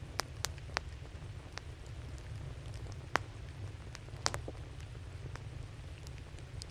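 Wood fire crackling, with sharp isolated pops: a cluster of three near the start, then single loud ones about three and four seconds in, over a steady low rumble.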